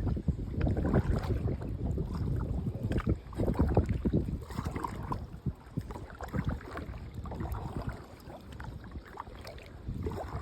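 Wind buffeting the microphone in a low rumble, with irregular splashes and knocks of water against a kayak.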